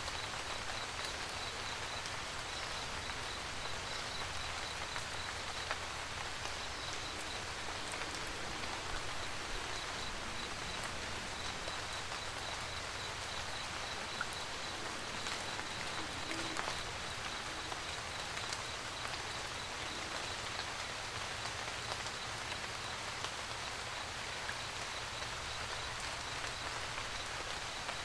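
Steady rain pattering on a camper van roof, with individual drops ticking sharply now and then. An even, high-pitched pulsed chirping of about three pulses a second runs behind it.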